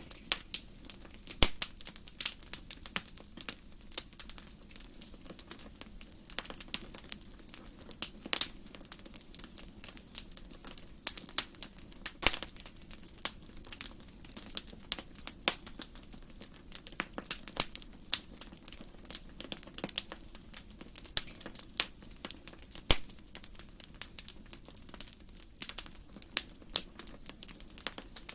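Wood fire burning in a fireplace, crackling with irregular sharp pops over a low, steady hiss. A few pops stand out louder than the rest.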